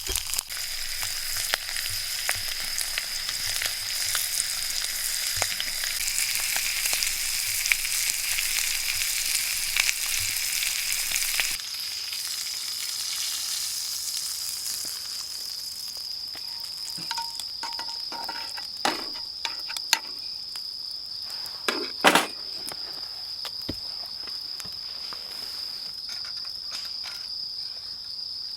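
Sizzling that dies down about halfway through, over a steady high-pitched insect trill, typical of crickets. A few sharp knocks come later, the loudest about three quarters of the way in.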